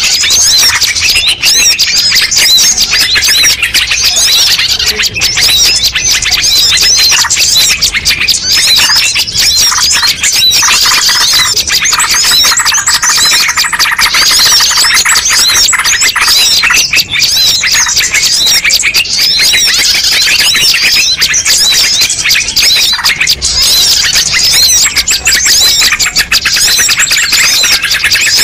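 A dense, loud chorus of many small birds' chirps, whistles and trills overlapping without a break: a mixed-species bird-lure recording.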